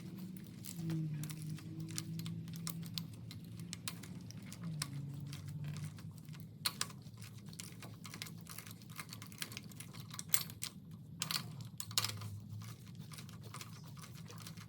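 Irregular clicks and light metallic taps of hand tools working loose the rocker arms on a Ford 289 V8's cylinder head, over a low steady hum.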